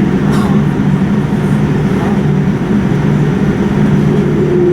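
Steady running noise of a vehicle, a constant low hum under even noise.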